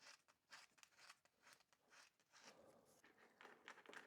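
Emery cloth scrubbing a battery terminal post, a faint series of short scratching strokes, two or three a second, cleaning off the corrosion that was spoiling the electrical contact.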